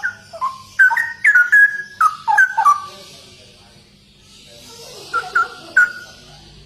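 Straw-headed bulbul (cucak rowo) singing: a loud run of bubbling, gliding whistled notes for about three seconds, then a short phrase of three notes about five seconds in.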